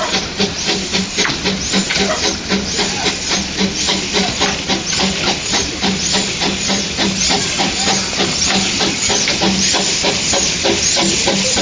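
Quarry Hunslet narrow-gauge steam locomotive chuffing: rhythmic hissing exhaust beats, about three a second at first, quickening and running together in the second half.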